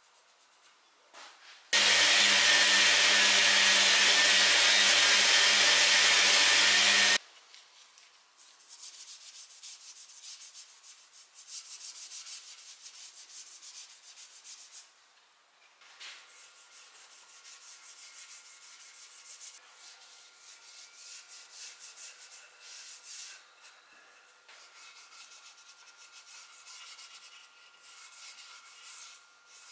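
A loud, steady power tool runs for about five seconds, starting and stopping abruptly. Then comes quieter hand-rubbing on oak chair wood, with quick, irregular scratchy strokes.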